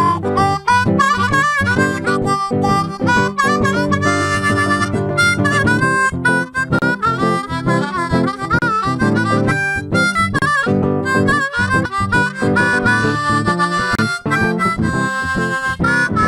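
Blues harmonica solo over guitar accompaniment, the harmonica bending and sliding its notes.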